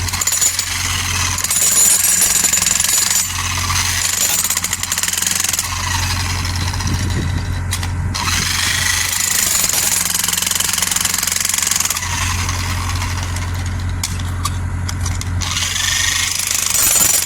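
Mini excavator running, a steady low engine hum that grows and eases in stretches, with a fast, continuous hammering rattle over it.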